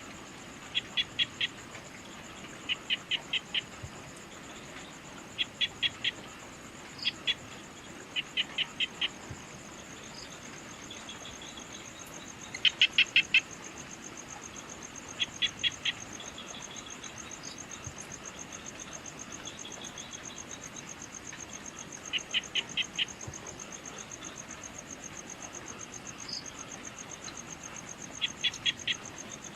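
Evening insect chorus: a steady, high-pitched, finely pulsing trill. Over it come short groups of four or five rapid chirps, repeating every couple of seconds with gaps, the loudest group about halfway through.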